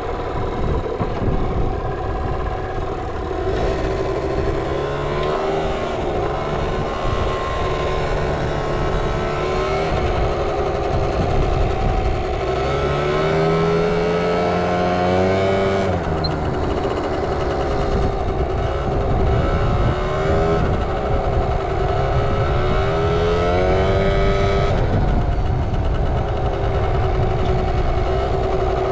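Suzuki Street Magic 50 scooter's small two-stroke single-cylinder engine running, its pitch rising and falling back several times as it is revved. It runs with no abnormal noise.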